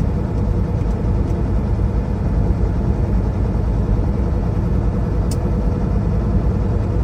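Steady engine and road rumble inside a moving semi-truck's cab, with one brief light tick about five seconds in.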